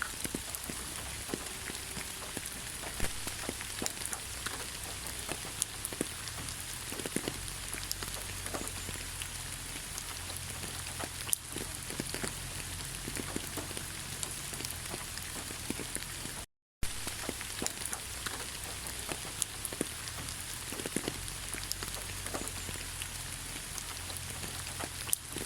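Steady rain falling, an even hiss with many individual drops ticking sharply on a surface. The sound cuts out completely for a split second about two-thirds of the way through.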